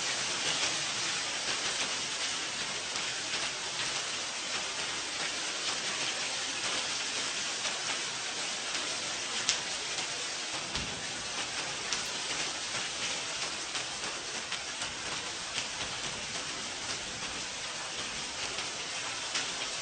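Steady rain falling, with many individual drops ticking sharply through the hiss of the downpour, and a single low thump about halfway through.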